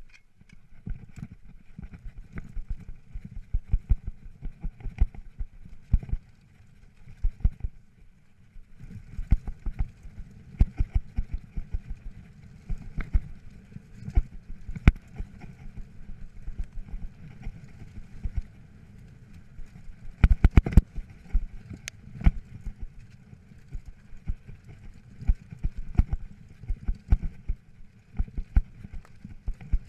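Mountain bike rattling over rocky, rooty singletrack: a steady low rumble of tyres on rough ground, broken by quick irregular knocks and clatters from the chain and frame, with a burst of hard knocks about twenty seconds in.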